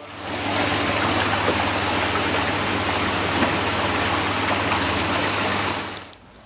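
Hot tub jets running: loud churning, bubbling water over the steady hum of the pump motor, stopping abruptly about six seconds in.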